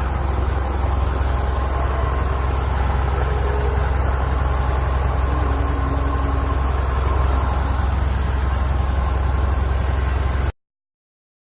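Cessna 172E's six-cylinder Continental O-300 piston engine running with a steady, loud drone, cut off abruptly about ten and a half seconds in.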